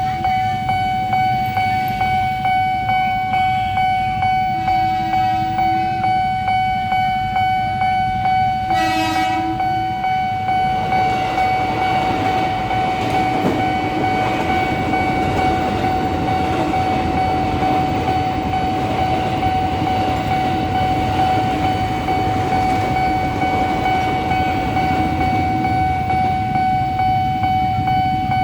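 Level-crossing warning bell ringing steadily in quick repeated strokes. About nine seconds in a train horn gives one short blast. Then a train passes over the crossing with a rumble and wheel clatter while the bell keeps ringing, until the bell stops near the end.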